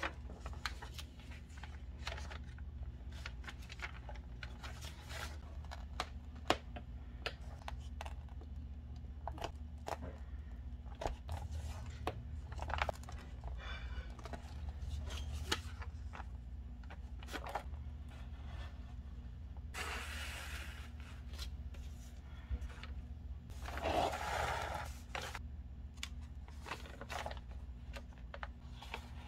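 Paper crafting: thin paper and magazine cutouts handled, with many small clicks and snips and two longer rustles of paper, about twenty and twenty-four seconds in, over a steady low hum.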